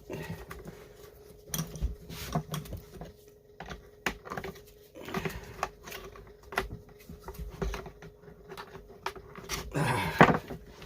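Irregular clicks, taps and light clatter of hand tools and small metal parts being handled on a workbench while a chainsaw's intake flange is taken off, over a faint steady hum.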